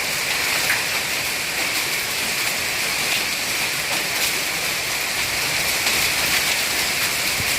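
Heavy rain and hail pouring down in a monsoon storm: a steady, dense hiss of downpour with a few sharper hailstone hits standing out.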